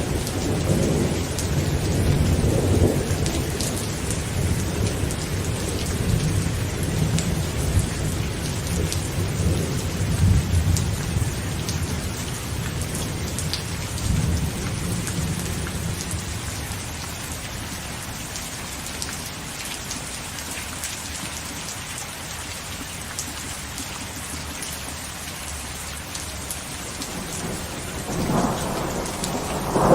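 Heavy rain falling on a tent, with many fine drop ticks. Rolling thunder rumbles through the first half and fades away, leaving steady rain, and a new roll of thunder builds near the end.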